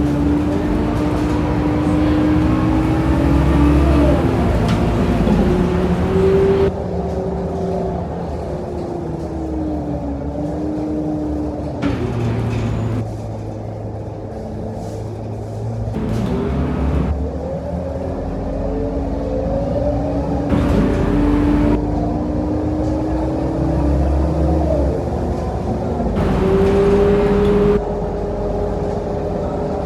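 Scania K230UB city bus heard from on board: its five-cylinder diesel engine and drivetrain run under a low rumble, with a whine that rises and falls in pitch as the bus speeds up and slows down. Several short bursts of louder noise, each cutting off suddenly.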